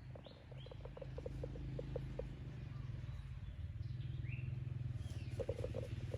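Birds calling over a steady low rumble: a quick run of short pulsed notes, about five a second, stopping a little over two seconds in and coming back near the end, with a few short high falling chirps in between.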